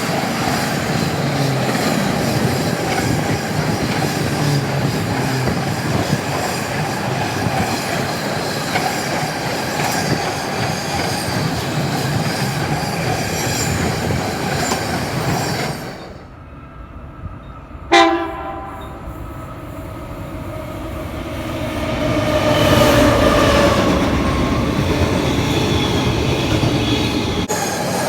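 A freight train running past, with the steady rumble and rattle of its wagons and wheels. About two-thirds of the way through, a sudden short train horn blast sounds and fades, then the wheel noise swells again with some squealing.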